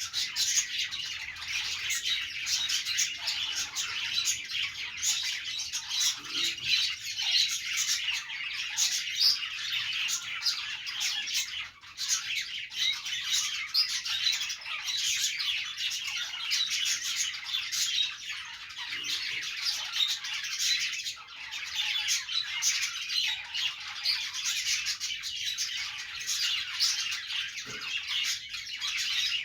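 A group of budgerigars chirping and warbling continuously, many quick overlapping calls with occasional squawks, with a brief lull about twelve seconds in.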